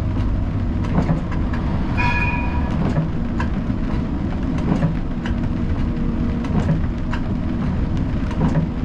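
Siemens Combino tram running along its rails with a steady low rumble and irregular wheel clicks and knocks. A brief high tone sounds about two seconds in.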